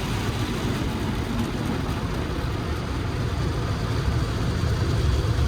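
Automatic car wash at work on the car, heard from inside the cabin: a steady low rumble with an even hiss over it.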